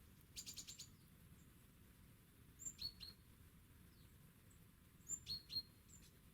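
Small songbird calls from the feeder birds: a quick run of about six high notes near the start, then two matching short, sharp phrases a couple of seconds apart, over faint garden background.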